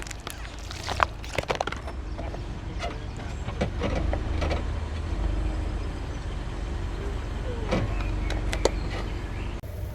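A car moving slowly with its engine running low and steady, with scattered small cracks and clicks as its tyre rolls over objects.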